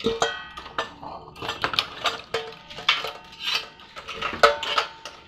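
Metal utensils and spoons in a dishwasher rack clattering and clinking as they are handled: a quick run of sharp knocks, many ringing briefly.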